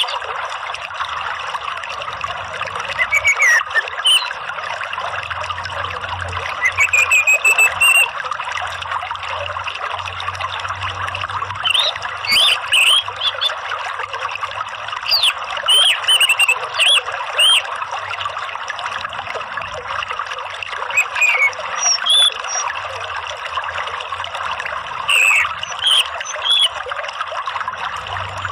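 Steady trickling water with short chirps and whistled calls of an orange-headed thrush (anis merah) breaking in every few seconds. It is a prompting (pancingan) track meant to get a caged thrush to sing.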